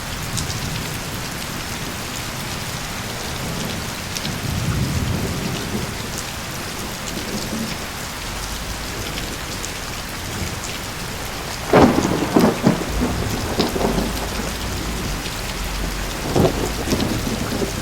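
Loud rainstorm: steady rain with a low rumble of thunder about four seconds in, then a sharp thunderclap about twelve seconds in followed by crackling peals, and another smaller clap near the end.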